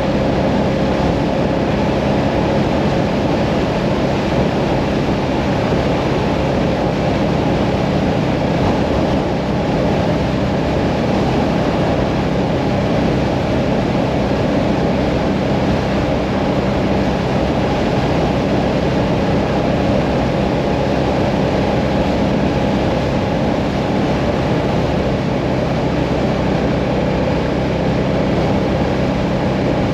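Hyosung Mirage 650 cruiser motorcycle's V-twin engine running steadily at cruising speed, with heavy wind and road noise on the microphone.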